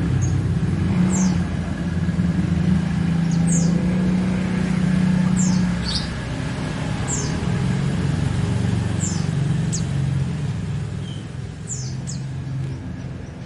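A small bird chirping, short high notes that sweep downward, repeated every second or two, over a steady low engine-like rumble that is loudest in the first half and eases after about six seconds.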